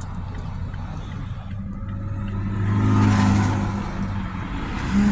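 Motor vehicle driving, with a steady low engine hum and road noise. The engine swells louder about three seconds in, as if accelerating, then eases off.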